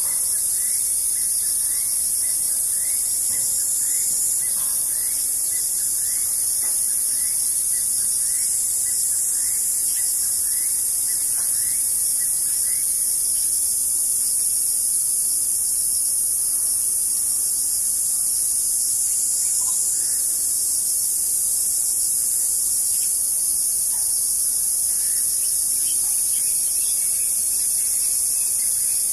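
Steady, high-pitched chorus of insects shrilling without a break. In the first half a fainter series of short chirps repeats about once every two-thirds of a second.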